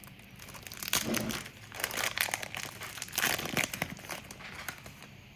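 Plastic trading-card pack wrapper crinkling in the hands in irregular bursts as the pack is opened and handled.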